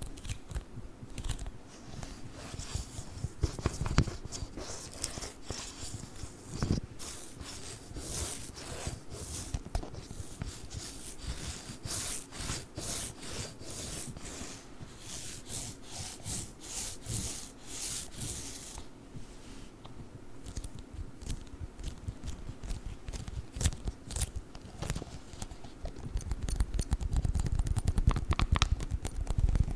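Sticky lint roller tape crackling and tearing as the adhesive pulls away, in a dense run of quick crackles that is thickest in the middle, with a lower rubbing near the end.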